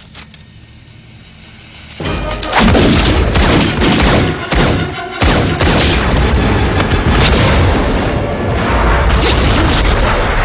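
Film action soundtrack: subdued for about two seconds, then suddenly loud booming orchestral score mixed with rapid handgun fire and heavy impacts, continuing at full intensity as the pistols are emptied.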